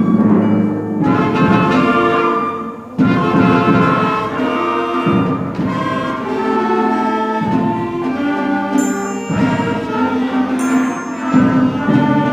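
School concert band playing, with winds holding full chords. The sound thins out briefly just before three seconds in, then the whole band comes back in at once.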